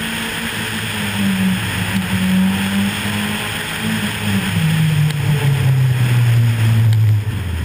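Rally car engine running hard under a steady rush of wind noise; about halfway through the revs drop and the engine holds a lower, steady note as the car slows toward a junction.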